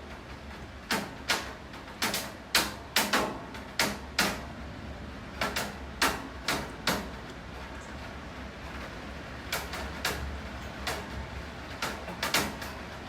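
Rain falling steadily, with large drops dripping close by in sharp, irregular taps a fraction of a second apart; the taps thin out for a couple of seconds in the middle.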